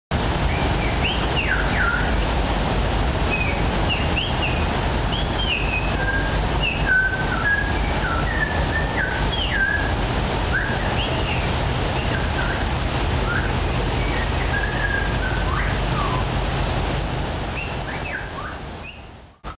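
Small birds chirping in many short calls that glide up and down, over a steady low rumble and hiss. The sound fades out near the end.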